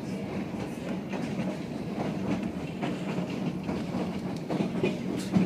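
White Pass & Yukon Route narrow-gauge passenger train rolling along the track: a steady rumble with irregular clicking and clacking from the wheels over the rails, and a sharper clack near the end.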